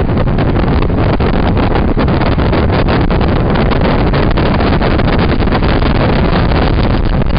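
Truck cabin noise while driving away fast: loud road and wind rush with many rapid knocks and rattles, heard through a cell phone's microphone.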